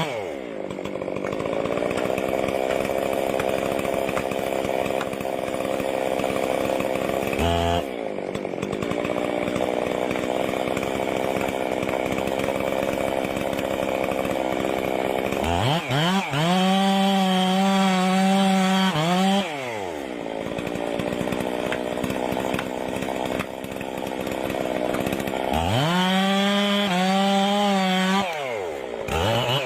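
Gasoline chainsaw running: a steady lower-pitched run, then twice revved up to a high held pitch for about three seconds before dropping back down. A brief break comes about eight seconds in.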